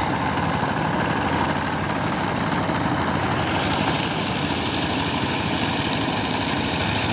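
Power tiller engine running steadily with fast, even firing pulses, a little more high-pitched noise coming in about halfway through.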